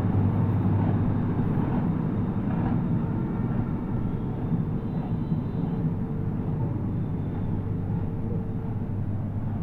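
A steady low machine hum with even background noise.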